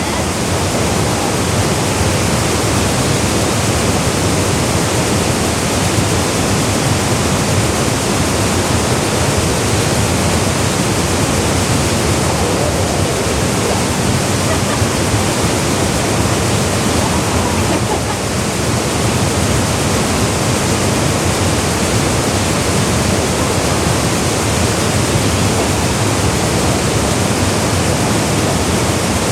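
Waterfall pouring into a gorge pool: a steady, loud rush of falling water that stays even throughout.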